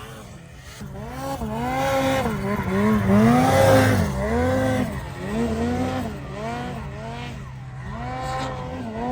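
Snowmobile engine revving up and down over and over, its pitch rising and falling about once a second as the throttle is worked.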